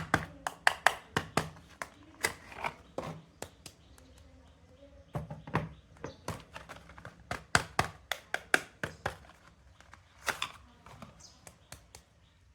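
Sharp, irregular taps and clicks from handling soap bars and their packaging, coming in quick clusters with a short lull about four seconds in.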